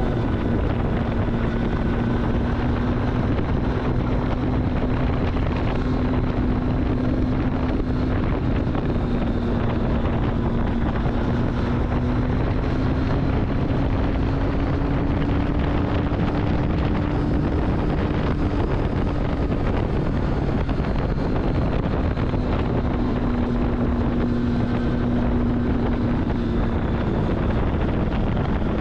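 Triumph Street Triple's three-cylinder engine running at a steady road speed, its note drifting slightly up and down, with heavy wind noise on the microphone.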